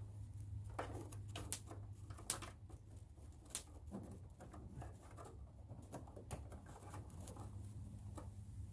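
Scattered light clicks and knocks of small parts and hand tools being handled during disassembly of a truck's air intake, three sharper clicks in the first few seconds, over a steady low hum.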